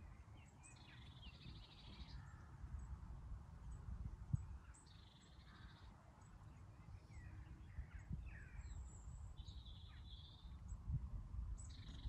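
Wild birds calling: high, buzzy calls come every three to four seconds, with short faint chirps between them, over a low rumbling background noise. A single short knock comes a little after four seconds in.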